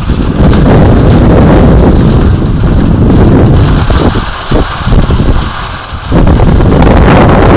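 Heavy rain and strong gusting wind in a thunderstorm, the wind buffeting the microphone in loud low rumbles that ease off briefly about four and six seconds in.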